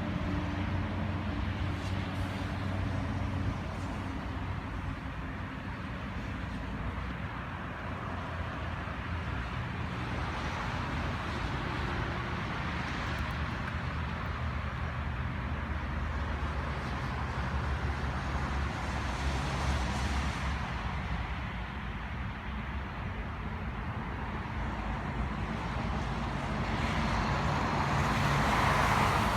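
Steady vehicle engine hum with road noise, growing louder near the end.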